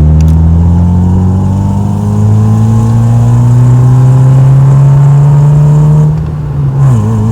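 Volkswagen Mk4 Bora's engine with a newly fitted exhaust, pulling under acceleration, its note climbing steadily. Near the end it quietens for a moment and the pitch falls quickly before holding steady.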